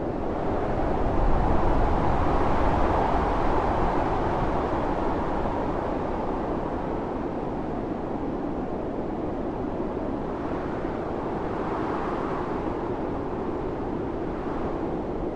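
Snowstorm wind howling, a steady rushing noise that swells in a strong gust about a second in, eases off, and rises a little again near the end.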